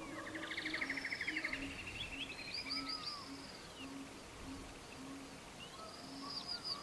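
Birdsong: rapid buzzy trills and rising-and-falling chirps, with the same phrase coming back near the end. Beneath it runs a soft row of short, low, evenly spaced notes.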